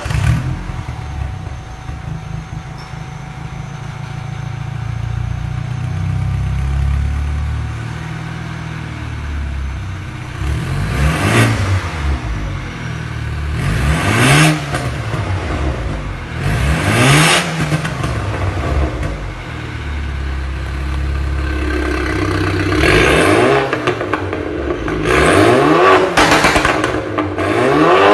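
Stage 2 tuned BMW F10 engine and exhaust idling, then revved in a series of free-revving blips, each rising and falling in pitch, with crackling exhaust pops around the peaks. The blips come about every three seconds after ten seconds of idle, then faster and closer together near the end.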